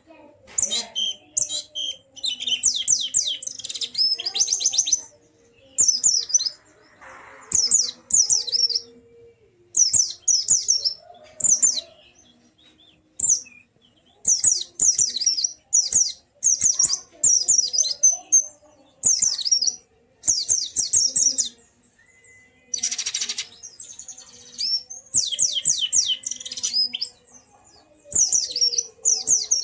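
White-eye (pleci) singing in full voice: phrases of fast, high twittering notes about a second long, repeated again and again with short pauses.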